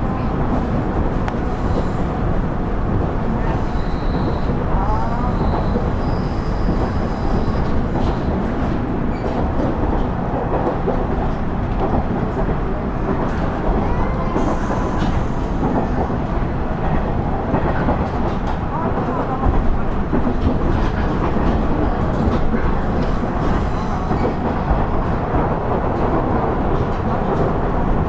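Running sound inside a KiHa 110-series (KiHa 112) diesel railcar under way: a steady rumble of the diesel engine and wheels on rail. A few faint, brief squeals come through over it.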